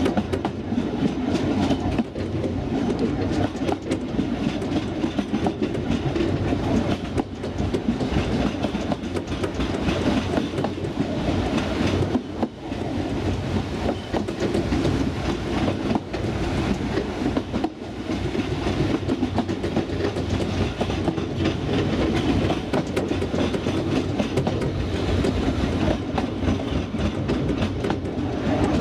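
Narrow-gauge railway coach running along the line, its wheels clattering over the rail joints in an irregular clickety-clack over a steady rumble, heard from the coach's open veranda.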